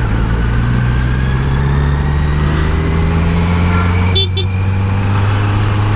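Kawasaki Z900 inline-four motorcycle engine running at low revs in slow traffic, its pitch rising gently as the bike pulls away, heard through an aftermarket exhaust. A brief horn toot sounds about four seconds in.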